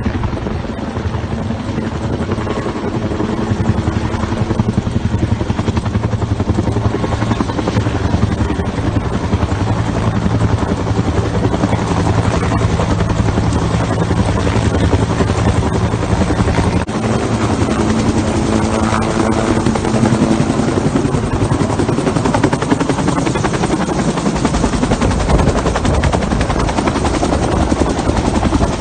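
Bell 210 (UH-1) helicopter running close by: its two-bladed main rotor chops steadily with a steady engine tone underneath, and the tone changes pitch about halfway through.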